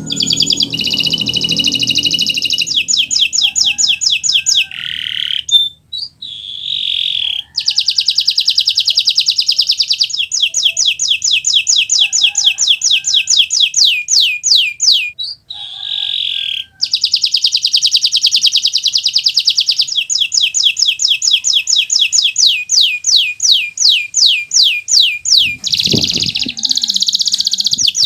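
Kenari Nusantara canary in full song: long, loud trills of rapidly repeated high notes, some very fast and others slower downward-sweeping notes, broken by two short pauses.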